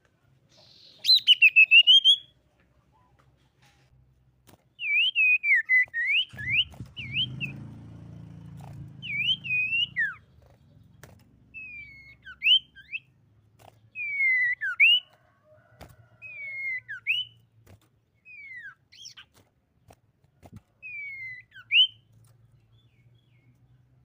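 Common iora singing a series of short whistled notes that slide down and then up. A loud cluster comes about a second in, followed by repeated phrases separated by pauses. A low rumble runs underneath for a few seconds in the middle.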